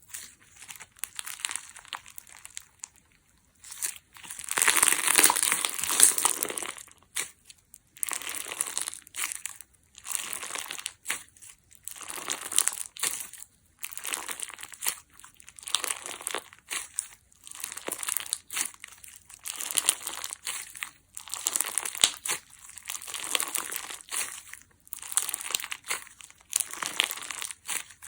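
Crunchy clear slime full of trapped air bubbles being squeezed and pressed by hand, crackling and popping in repeated bursts about every second and a half; the longest, loudest burst comes about four seconds in.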